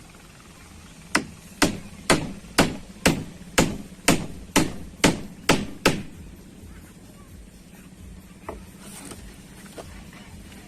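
A hammer striking in a steady run of about eleven even blows, roughly two a second, stopping about six seconds in; one lighter knock follows a little later.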